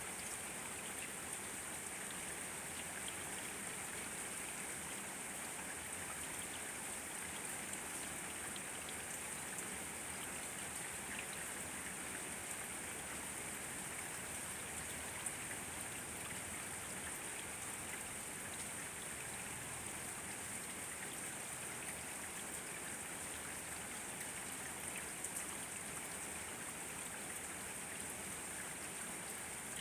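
Steady rain falling, a constant hiss with scattered individual drops pattering.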